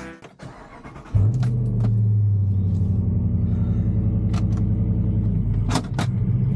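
Pickup truck engine starting up about a second in, then running at a steady idle. A couple of sharp clicks near the end.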